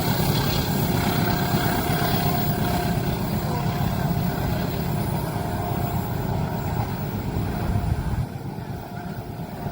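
A train passing at a level crossing: a steady low rumble that drops off sharply about eight seconds in as it clears.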